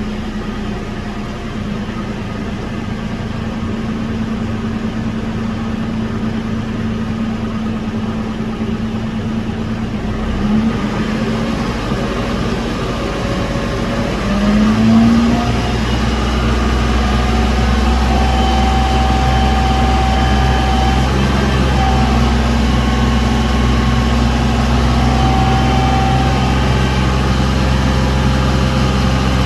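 Toyota 4Runner's 4.0-litre V6 running, heard from inside the cabin. The engine note rises briefly twice, about ten and fifteen seconds in, then settles into a louder, steady low drone.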